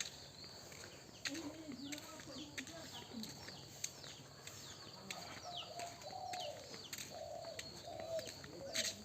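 Birds calling: low wavering cooing and short, high, falling chirps.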